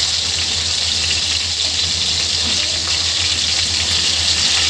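Chicken pieces frying in hot mustard oil, a steady sizzle, while they are turned over in the pan with a wooden spatula.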